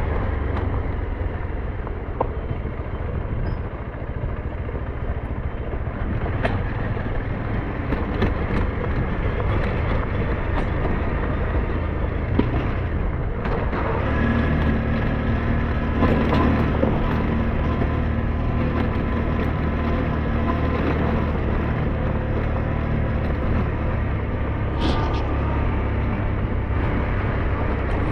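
A SYM NH T 200 single-cylinder motorcycle engine running under way, mixed with road and wind rumble. The engine settles into a steadier tone about halfway through, and there are scattered short clicks.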